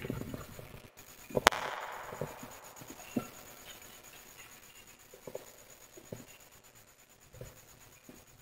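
Wood fire crackling, with one loud, sharp pop about a second and a half in that trails off in a brief hiss of small crackles, then a few scattered quieter snaps.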